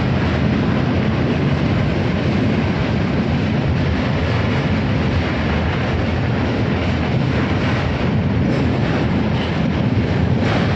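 Passenger train running, heard from on board: a steady rumble of wheels and carriage noise.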